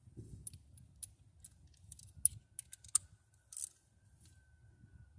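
Light, irregular metallic clicks and clinks of hand tools and bolts against engine parts, about a dozen scattered over a few seconds, over a low rumble.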